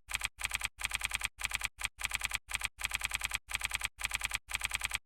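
Rapid clattering clicks like keyboard typing, coming in even runs about half a second long with short silent breaks between them, repeating steadily.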